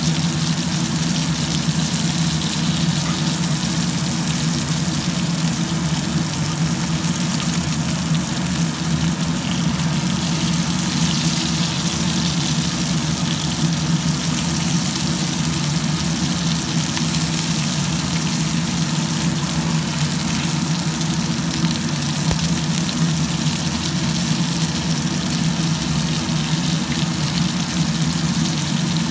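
Fish shallow-frying in hot oil in a pan, a steady sizzle, under a steady low hum that is the loudest part of the sound.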